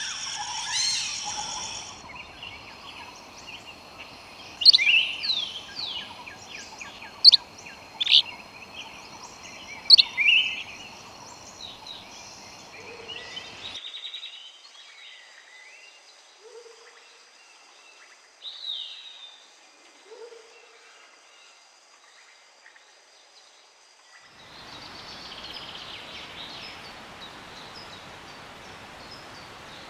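Several wild birds calling. A run of loud, sharp whistled notes and chirps comes in the first half, then sparser calls, including a few short low notes and a falling whistle. Near the end there is a steady hiss of forest background with faint chirps.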